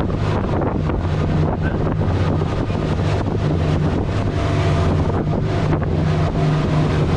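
Glass-bottom tour boat's engine running with a steady low drone, with wind buffeting the microphone.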